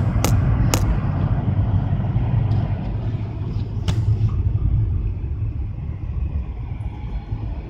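Low, steady road and engine rumble of a moving car heard from inside the cabin, easing off toward the end. A few sharp clicks come in the first second, and one more about four seconds in.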